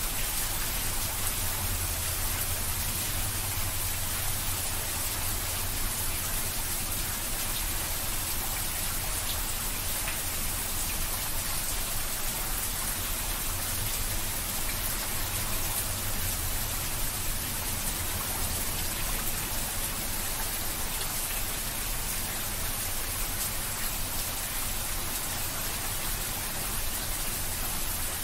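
Rain falling steadily onto wet stone paving and a shallow layer of standing water: an even, unbroken splashing hiss.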